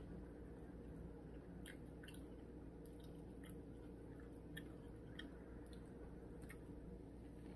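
Faint chewing of a sub sandwich: soft, irregular mouth clicks over a steady low hum.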